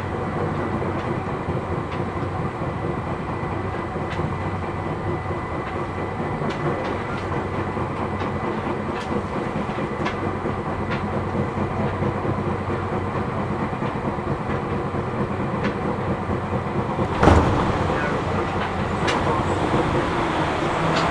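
Interior running noise of a Seibu New 2000 series electric train at speed: a steady rumble with faint clicks of wheels over rail joints. About 17 seconds in there is a sudden loud rush, after which the running noise stays a little louder. The wheels have flat spots, which add a knocking to the running noise.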